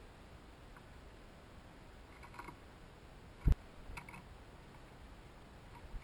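Light clicks and taps of birds feeding at a hanging seed feeder, with one dull thump about three and a half seconds in.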